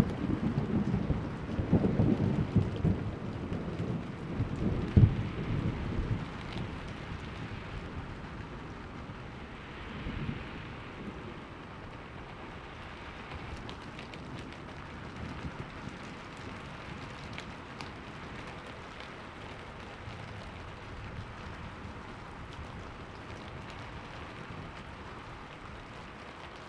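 Thunderstorm: steady rain, with a rumble of thunder that crackles and dies away over the first six seconds or so, and a fainter distant rumble about ten seconds in.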